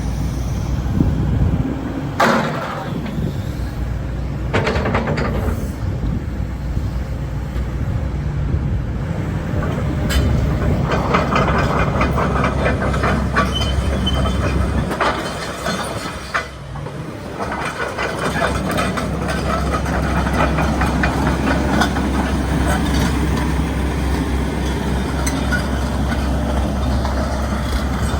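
Hitachi ZX130LCN-6 tracked excavator running, its diesel engine droning steadily under a metallic rattling and clanking. The engine note drops away briefly about two-thirds of the way through, then picks up again.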